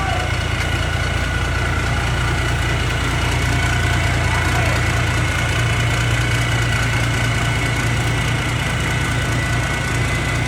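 Hino H07D six-cylinder diesel engine of a forage-corn harvester running steadily, with a strong low hum and a steady high whine over it.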